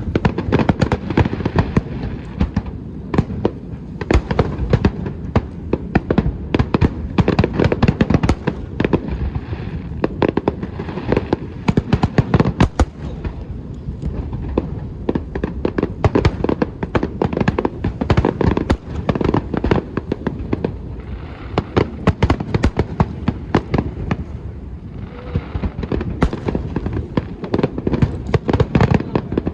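Aerial fireworks going off in a rapid, unbroken barrage of bangs and crackling.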